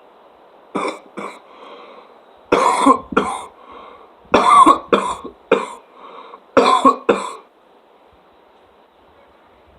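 A person coughing loudly in a fit of about nine coughs, coming in clusters over some six seconds.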